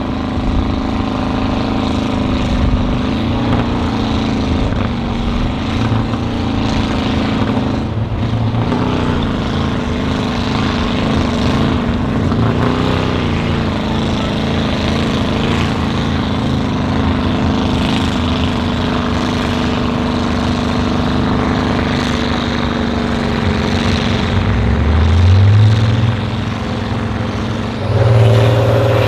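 Heavy off-road trial truck's engine running under load, its pitch wavering as the driver works the throttle. It revs up sharply about five seconds before the end.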